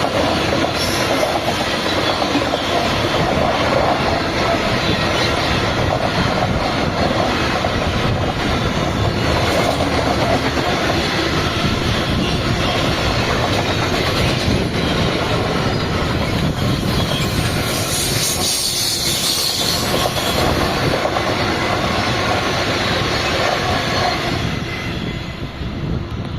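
A train running past close by, the steady loud rumble and clatter of its wagons on the rails, with a brief sharper high-pitched stretch about three quarters of the way through; it cuts off suddenly at the end.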